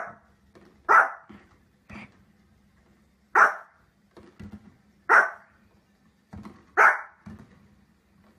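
A small fluffy dog barking: five loud, sharp barks spaced about one to two seconds apart, with fainter low sounds in between.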